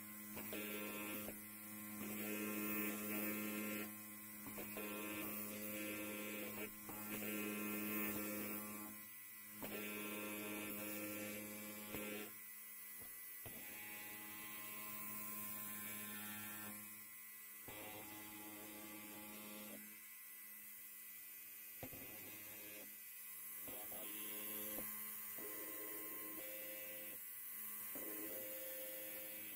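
Electric hair clipper buzzing with a steady hum. It grows louder and softer in turns, with brief dips every few seconds.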